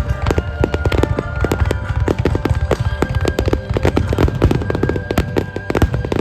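Fireworks display: a rapid, dense barrage of aerial shell bursts and crackling, several bangs a second, with music playing underneath.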